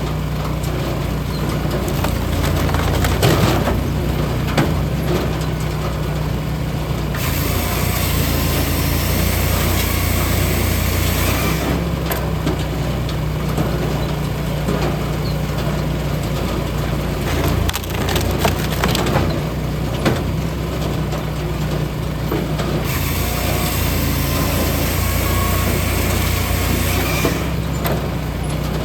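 Hydraulic log splitter at work: its engine runs steadily while wood cracks and splinters now and then as logs are split.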